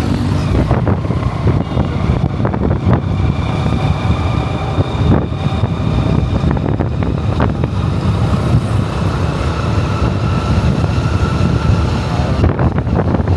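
Motorcycle running while being ridden, with wind buffeting the microphone in a steady low rumble.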